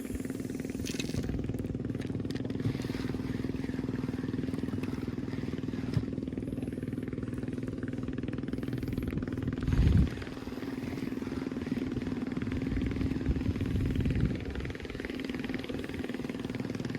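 Fishing boat's engine running steadily with a constant low hum. A brief louder thud comes about ten seconds in, and the sound grows rougher for a couple of seconds after that.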